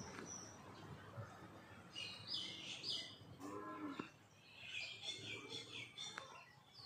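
Small birds chirping faintly: a few high, curving calls about two to three seconds in and a quicker run of chirps near the end. A brief low call sounds once, about halfway through.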